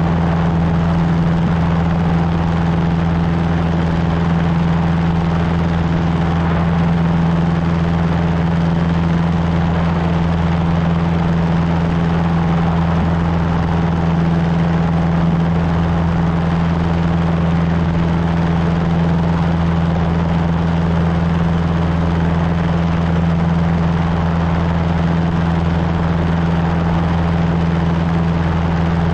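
Cessna 150's four-cylinder Continental O-200 engine and propeller running steadily in flight, a constant low drone that does not change in pitch.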